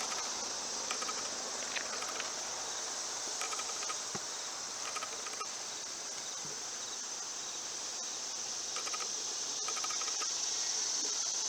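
Insects chirping: a steady high-pitched hiss with short bursts of rapid ticking chirps recurring every second or two.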